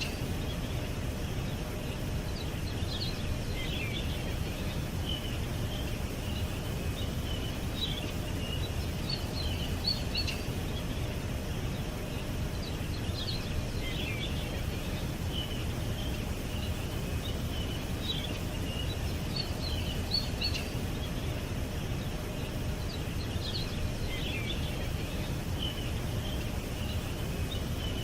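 Small birds chirping and twittering in short scattered bursts, with a denser flurry about every ten seconds, over a steady low background rumble.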